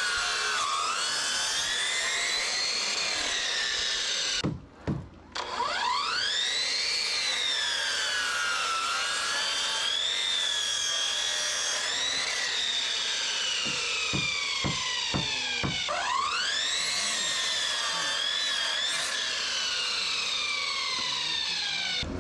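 An electric power saw cutting 2x6 lumber. Its motor whine rises quickly as it spins up and sags and recovers as the blade works through the wood, three times over. There are a few short knocks about two-thirds of the way through.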